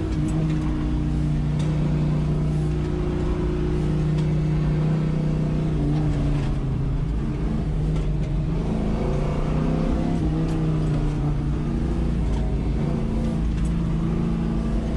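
Car engine heard from inside the cabin while driven hard through an autocross course: a steady pull that drops in pitch about seven seconds in as the car eases off, then rises and wavers again.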